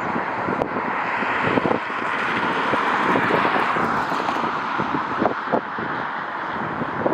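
Steady rushing noise of a jet airliner's engines, with gusts of wind buffeting the microphone.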